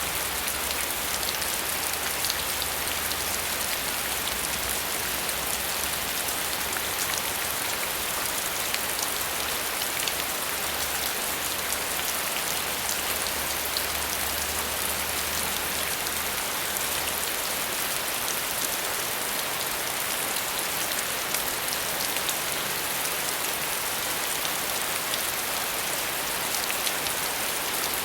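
Steady rain falling, an even hiss sprinkled with the ticks of single drops.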